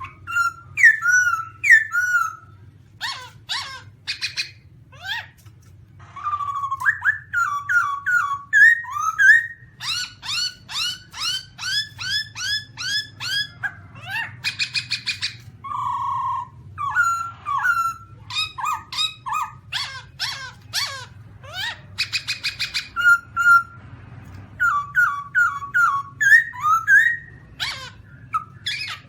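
Black-throated laughingthrush calling without pause: rapid series of quick rising and falling whistled notes mixed with harsher, buzzier phrases, repeated again and again. A faint steady low hum runs beneath.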